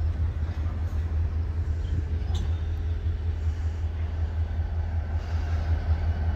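Freight train of tank cars rolling past, a steady low rumble with no horn or squeal; the higher sound changes abruptly about five seconds in.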